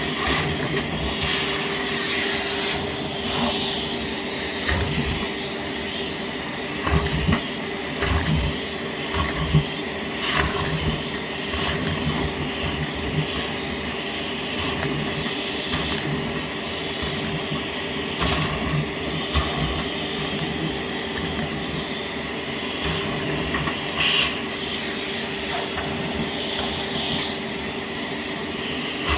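Kärcher WD 6 P wet/dry vacuum running steadily with a constant hum, while small plastic Lego tires are sucked up and click and clatter through the hose. Louder rushes of suction come about a second in and again near the end.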